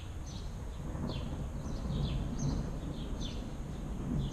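A small bird chirping over and over, short high calls that fall in pitch, about two a second, over a steady low rumble.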